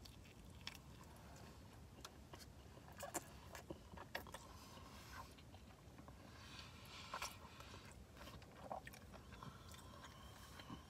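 Faint sounds of a person biting into and chewing a taco, with scattered small mouth clicks and smacks.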